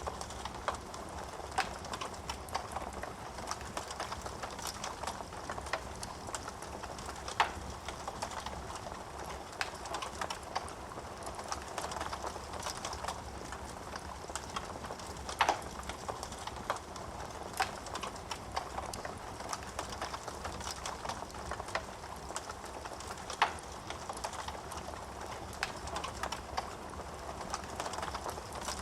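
Wood fire crackling in a fireplace: a steady hiss of burning with frequent small pops and snaps, and a few louder sharp cracks.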